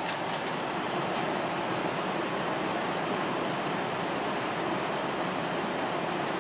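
General Electric 6050 BTU air conditioner running its fan on low: a steady rush of air, with the compressor not yet kicked in.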